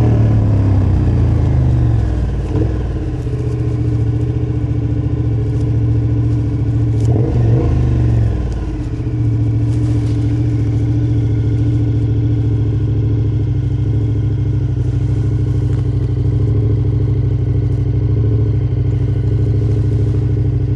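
KTM motorcycle engine heard from the rider's seat, its pitch falling as it slows at first, then a short rev about seven seconds in, then running at a steady speed.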